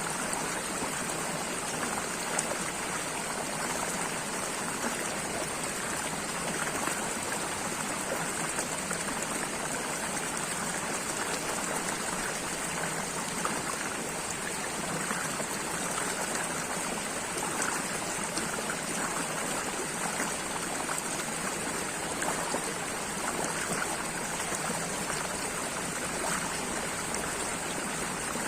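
Running water flowing steadily, a continuous rush with small splashes and no breaks.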